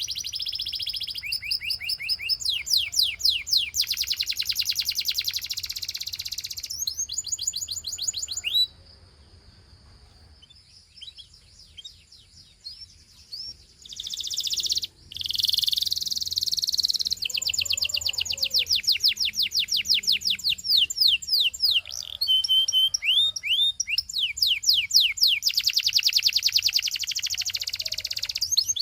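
Gloster canary singing: runs of fast, evenly repeated high chirps and trills. The song breaks off for about five seconds near nine seconds in, then starts again.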